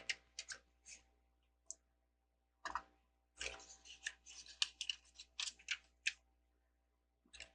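Plastic LEGO bricks clicking and rattling as they are handled: a few separate clicks in the first second, then a busy run of clicks from about three to six seconds in.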